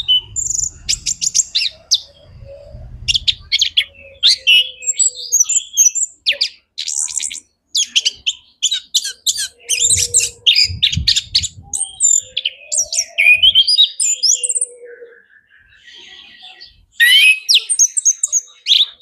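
Male chestnut-capped thrush (anis kembang) singing a fast, varied song of high chirps, whistles and rattling trills, with a short pause near the end before it starts again.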